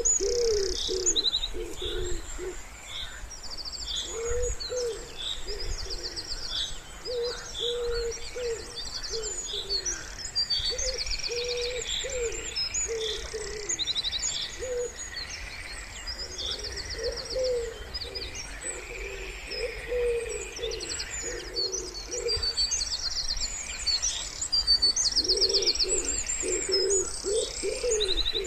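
A wood pigeon cooing in repeated low phrases, with other small birds singing short, fast, high trills over it throughout.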